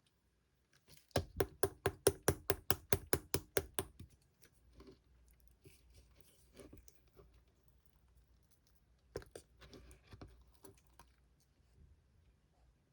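Slime being pressed and worked by hand, giving a quick run of sharp clicking pops, about five a second, for nearly three seconds. After that come softer squishing sounds and a couple of louder pops about nine seconds in.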